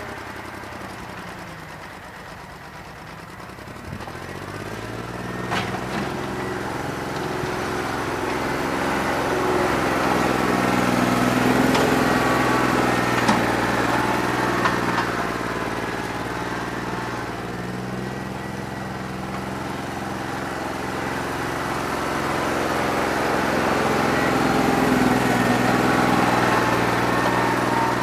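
New Holland 1320 tractor's three-cylinder diesel engine running, revving up about four to six seconds in, then holding with its loudness swelling and easing as it works. It has a bad injector and is running on only two and a half of its cylinders.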